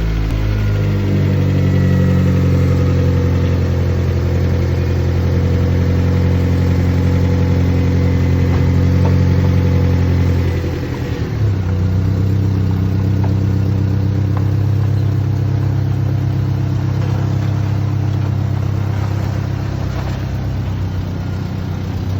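Honda Civic EK four-door's four-cylinder engine idling steadily just after being started, with a brief dip in level about halfway through before it carries on idling.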